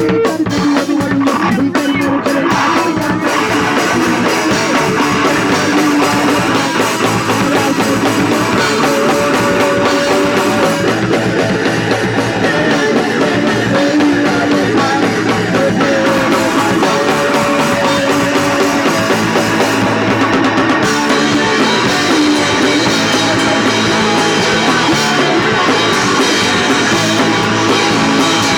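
Live punk rock band playing loud, with electric guitar and drum kit.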